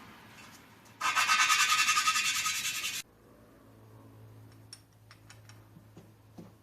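Harsh rasping of a tool working on the Kohler Magnum 16 engine's metal parts: a loud burst of about two seconds that starts and stops abruptly. Faint light ticks and a low hum follow.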